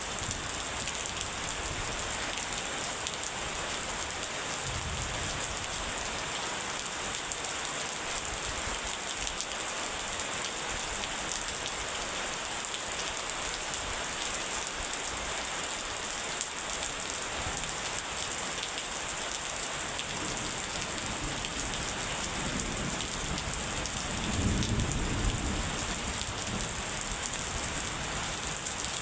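Steady rain hissing, with thunder rumbling low: once briefly about five seconds in, and again more strongly near the end.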